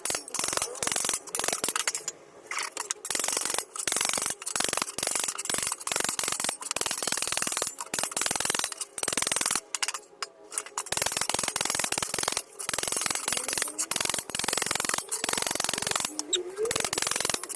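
Rapid, irregular hammer blows on sheet steel worked over a metal dolly block, shaping a car door repair panel, with brief pauses about two and ten seconds in.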